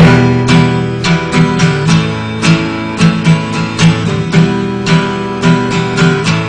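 Acoustic guitar strummed in a steady rhythm, an instrumental song intro without vocals.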